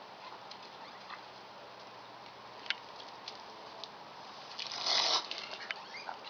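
Unidentified animal making strange noises: scattered sharp clicks and ticks, then, about five seconds in, a louder short noisy burst lasting about half a second, over a steady low hiss.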